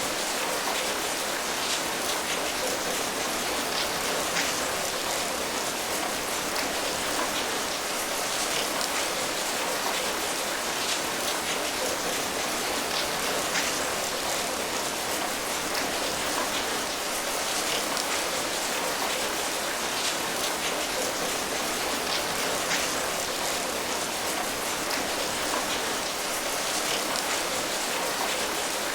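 Steady rain falling, a constant hiss with many small drop patters spread through it.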